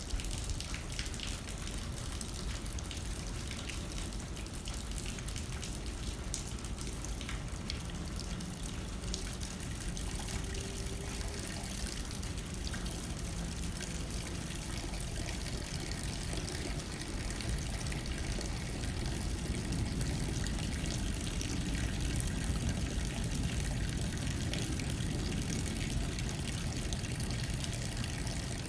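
Steady rain hitting a window pane with light wind, a constant patter of fine drop ticks over a soft rush. The low rush grows a little louder in the second half.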